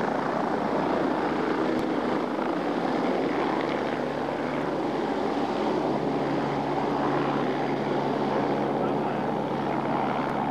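MBB Bo 105 helicopter running steadily, its twin Allison turboshaft engines and rotor giving a constant roar with a low hum that grows stronger about halfway through.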